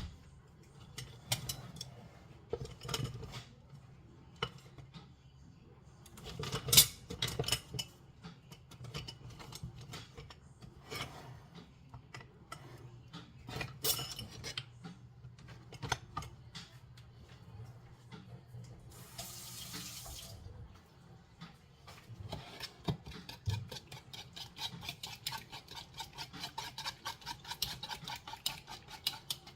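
Kitchen work: dishes and utensils knocking and clinking, with a tap running for about a second midway. Near the end comes a fast, even run of utensil strokes against a dish.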